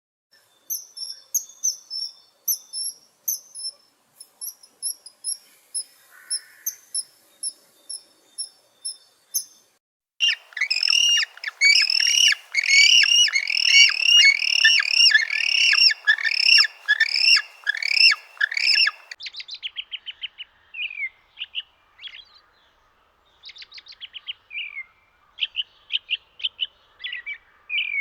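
Bird calls: a series of short, high, evenly spaced chirps, then from about ten seconds in a louder, rapid run of downward-sweeping chirps, then scattered chirps after about nineteen seconds.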